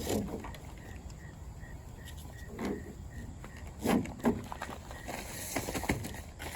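Intermittent handling noises from a truck tent's straps and nylon fabric being pulled and adjusted: scattered rustles and a few knocks, the loudest pair about four seconds in.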